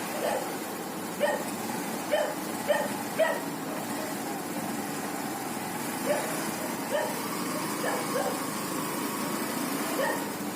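Steady vehicle engine and road noise, with a dog barking in short barks, a quick run of four early on and another five or so later.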